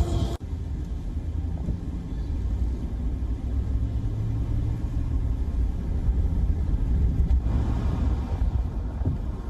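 A steady low rumble of outdoor sound, with a rushing hiss swelling and fading about eight seconds in.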